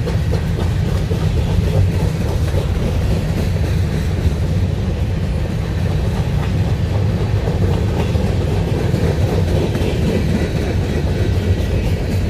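CSX freight train cars rolling past: a steady, loud rumble of steel wheels on the rails.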